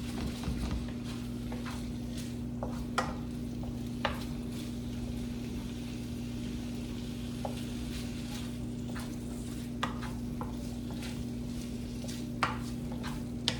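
Chicken pieces frying in butter in a pan, sizzling faintly as a utensil stirs them around, with a few sharp clicks of the utensil against the pan. A steady low hum runs underneath.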